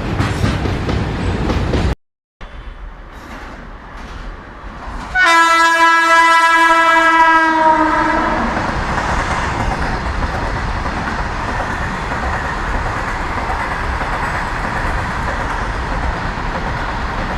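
Freight train rolling past with clickety-clack from the wagons. After a short break, an electric locomotive's air horn sounds once for about three seconds, dipping slightly in pitch at its end. A steady rumble of the running train follows.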